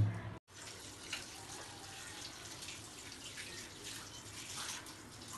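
Water running or splashing, a steady quiet hiss with faint scattered clicks and knocks.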